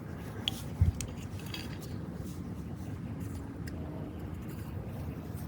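A few light metallic clinks and a dull knock about a second in, over a steady low background rumble.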